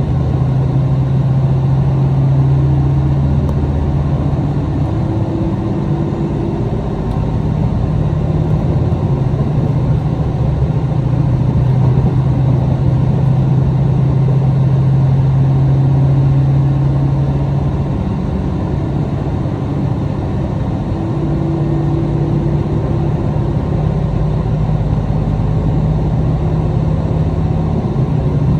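Interior running sound of a KiHa 261 series diesel express railcar, heard from a seat between its two underfloor diesel power units: a steady low engine hum over the rumble of the train in motion. The engine note fades for a few seconds about two-thirds of the way through, then comes back at a slightly higher pitch.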